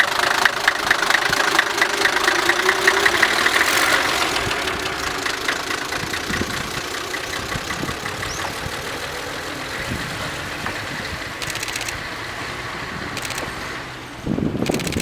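Diesel engine of the KiHa 10 rail bus KiHa 101 running with a rapid, even knocking clatter. It is loudest for the first few seconds, then eases off to a quieter steady run. A louder uneven rattling starts just before the end.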